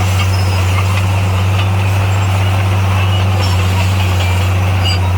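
Heavy diesel engine of earthmoving equipment running at steady revs, a constant low drone.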